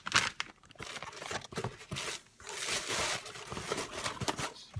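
Packaging being unwrapped: irregular crinkling, rustling and tearing of wrapping material as a small parcel is opened by hand.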